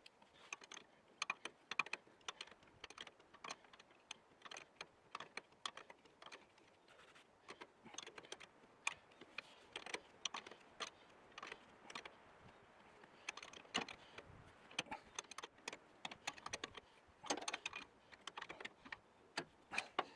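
Irregular light clicks and clinks, several a second and sometimes in quick clusters, of hand tools and small metal parts being handled while working on the machine.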